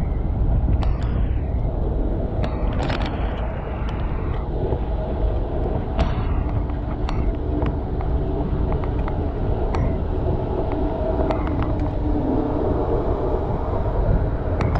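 Wind rumbling on the microphone and road traffic during a bicycle ride, with frequent sharp clicks and rattles.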